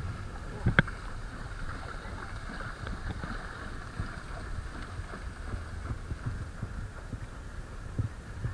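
Water sloshing and splashing with wind rumbling on the microphone, and a single sharp knock about a second in.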